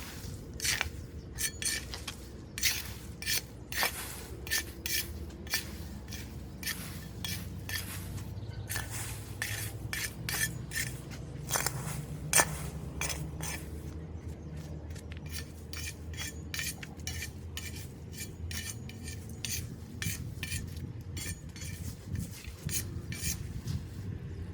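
Repeated metallic scraping and clinking, irregular and one to three strokes a second, like a metal tool working debris against a metal drain grate, over a steady low rumble.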